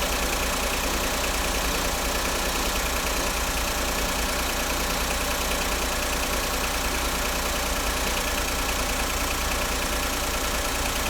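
2008 Smart Fortwo's 1-litre three-cylinder engine idling steadily; the engine has a misfire, logged on cylinder 3.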